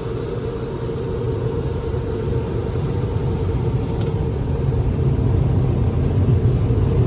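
Car driving: a steady low engine and road rumble that grows slightly louder. There is a single faint click about four seconds in.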